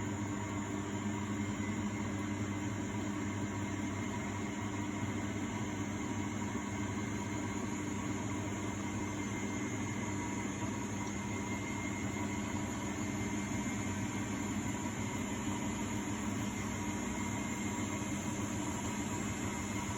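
A 1999 Miele Novotronic W828 front-loading washing machine running a Cotton 60 °C wash, with a steady motor hum and drum noise that does not change.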